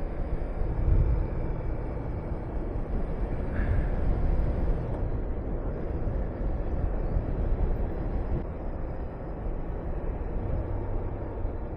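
Honda VTR250's V-twin engine running steadily as the motorcycle rides along, mixed with steady rushing wind on the microphone.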